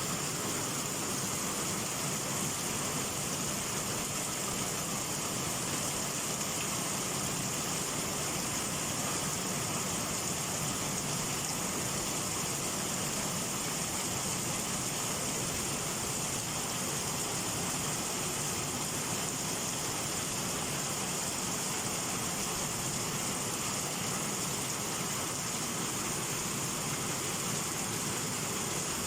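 Heavy summer rain falling steadily, an even hiss without any thunder.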